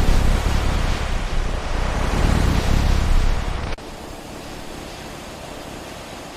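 Loud, deep rushing roar of jet aircraft engines that cuts off suddenly about four seconds in, leaving a quieter steady hiss.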